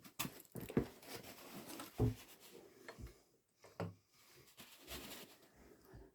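Hands working on an opened motorcycle clutch: parts rubbing and scraping, with several knocks, the loudest about two seconds in.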